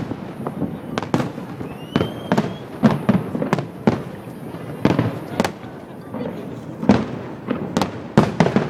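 Aerial fireworks bursting in quick, irregular succession: many sharp bangs, several a second, with a short rising whistle about two seconds in.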